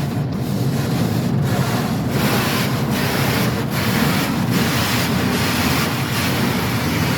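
Automatic tunnel car wash heard from inside the car's cabin: water and washing equipment rush steadily over the bodywork, with repeated swishing sweeps.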